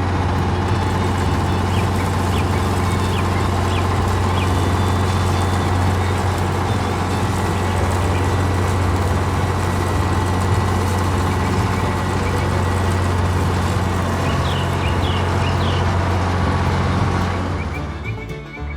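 A vehicle engine running steadily with a low, even drone, dipping briefly near the end.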